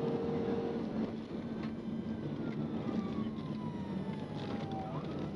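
Police car siren wailing in a slow downward sweep that jumps back up near the end, over a steady engine and road hum from the pursuing patrol car.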